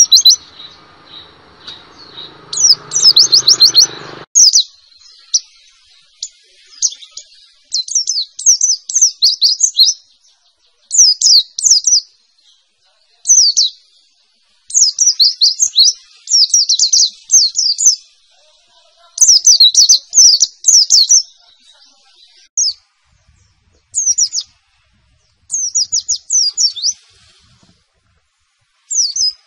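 White-eye (pleci) singing its rapid 'nembak' song: bursts of quick, high sweeping notes, each burst lasting about a second or two, with short pauses between them. A low background noise under the first few seconds cuts off suddenly.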